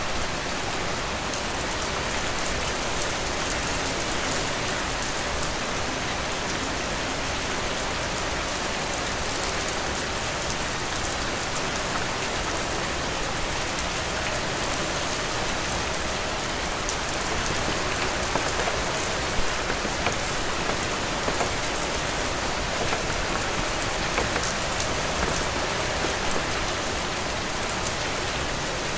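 Heavy rain falling steadily: a dense, even hiss with countless individual drops ticking through it, and a few sharper drop hits about two-thirds of the way in.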